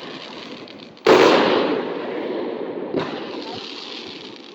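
Fireworks shells exploding in the sky: a loud boom about a second in that fades away over the next two seconds, then a second, smaller boom about three seconds in.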